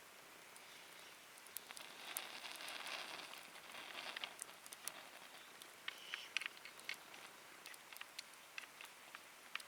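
Wood fire burning in a fire pit: scattered sharp crackles and pops, with a soft hiss that swells from about two seconds in and fades by about five.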